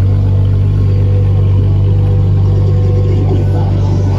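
A car engine idling with a low, even rumble that holds steady throughout.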